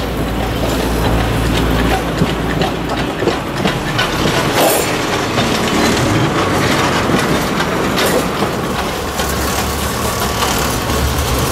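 Botchan Ressha replica steam-style locomotive, which is diesel-powered, moving slowly along street-side tram track: a low engine hum with wheels knocking on the rails. The hum fades about three seconds in and comes back near the end.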